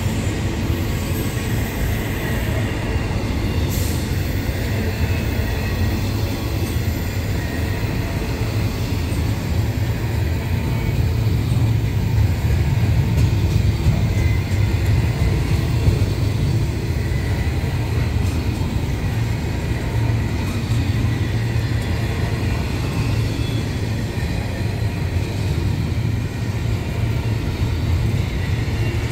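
Double-stack intermodal well cars loaded with containers rolling past, a steady rumble of steel wheels on rail that holds even throughout.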